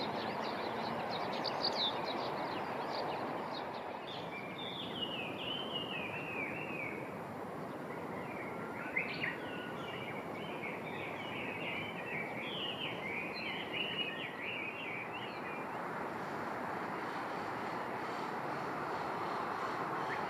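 A songbird singing quick runs of chirping, warbling notes, starting a few seconds in and stopping a few seconds before the end, over a steady background rush.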